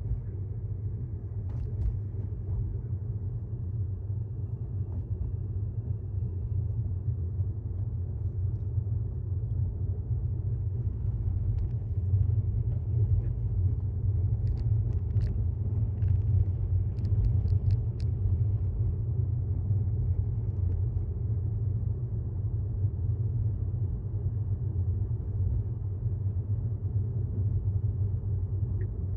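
Steady low road and tyre rumble inside the cabin of a 2018 Tesla Model S 75D, an electric car, as it drives along; there is no engine note. A few faint short clicks come about halfway through.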